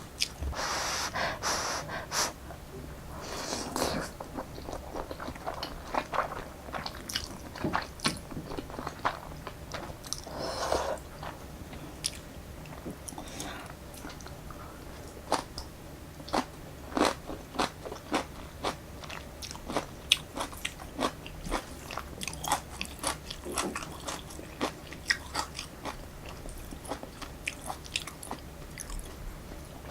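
Close-miked eating of Jjapaghetti black-bean noodles: wet chewing with many small sharp mouth clicks. A few longer hazy sounds come early on and about ten seconds in.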